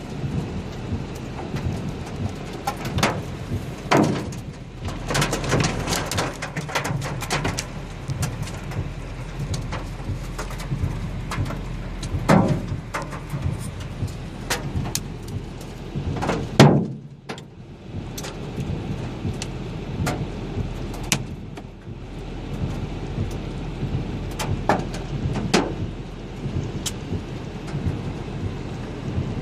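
Hail and rain pelting down: a steady hiss of rain with dense, irregular sharp hailstone impacts, and a few louder hits now and then.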